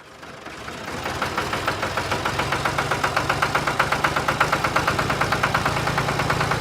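A small engine running steadily with a fast, even chugging pulse, growing louder over the first couple of seconds.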